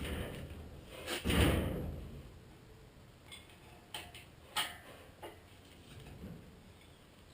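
A heavy clunk about a second in, then a few light clicks and knocks: handling noises of work on the pickup.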